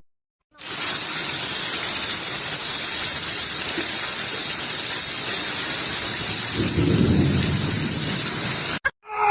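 A steady rushing hiss of falling water, with a low rumble swelling about seven seconds in. It starts abruptly about half a second in and cuts off shortly before the end.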